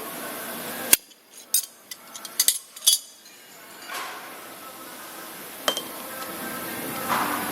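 A grinding machine's wheel spindle runs with a steady hum, then cuts off with a sharp click about a second in. A string of metallic clinks and knocks follows, and about four seconds in the machine starts running again. This is the spindle whose abnormal noise is being adjusted.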